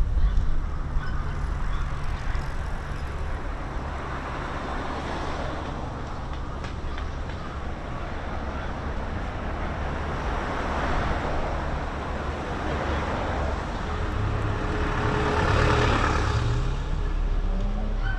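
Road traffic: a steady low rumble with vehicles passing by, the loudest pass about fifteen seconds in, and an engine rising in pitch as a vehicle accelerates near the end.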